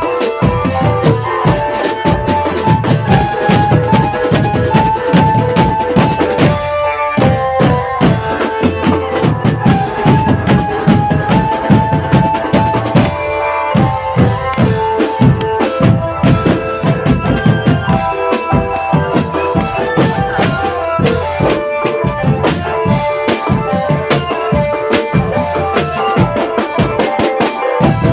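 Marching drum band playing: a fast, steady beat of bass and snare drums under a repeating melody.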